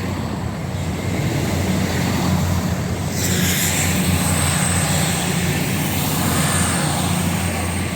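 Underfloor diesel engines of passenger trains, a Class 170 Turbostar and a Class 222 Meridian, running with a steady low drone. A hiss joins about three seconds in and carries on.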